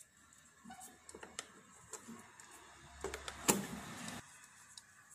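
Small plastic clicks and scraping as the outer part of a fan's rotary speed switch is twisted and worked loose by hand, with a louder rough scrape lasting about a second near three seconds in. The switch is broken and hard to turn.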